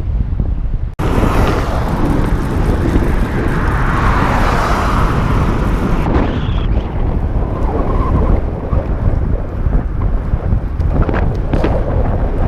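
Wind buffeting a GoPro microphone while cycling at speed, a steady low rumble. About a second in the sound cuts out briefly, then returns as a brighter rush for about five seconds before settling back.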